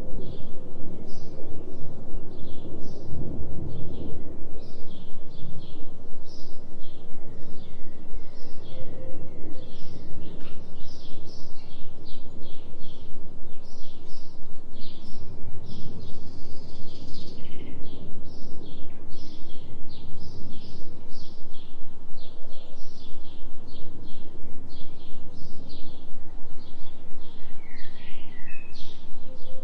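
Forest ambience: small birds chirping quickly and repeatedly over a steady low rushing noise and a low hum from the delta binaural-beat tones.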